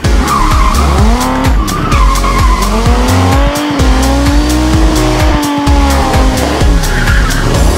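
Drift car engine revving up and down as it slides, with tyres squealing, over music with a heavy beat.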